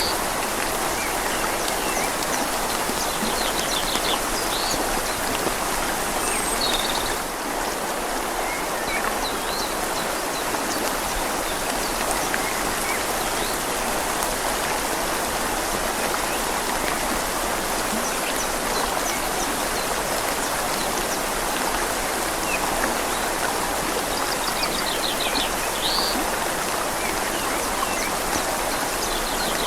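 Steady rain falling on leaves over a flowing river: a constant, even hiss of water. A few short, high bird chirps come through near the start and again near the end.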